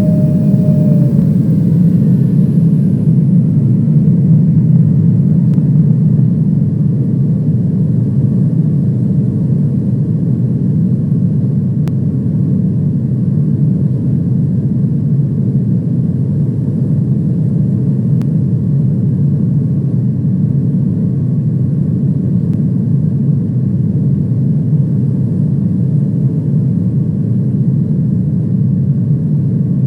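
Airliner cabin noise in flight: a steady, loud drone of engines and airflow. A faint whining tone slides down and fades about a second in.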